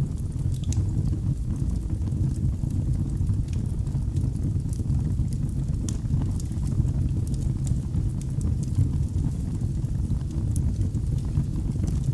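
Wood fire burning in a fireplace: a steady low rumble of flames with scattered sharp crackles and pops, a few each second.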